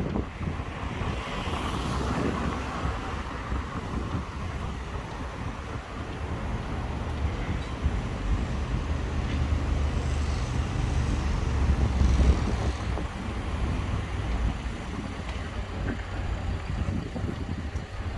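Street traffic: vehicles passing with a steady low rumble and a swell of tyre hiss a second or two in, with wind buffeting the microphone.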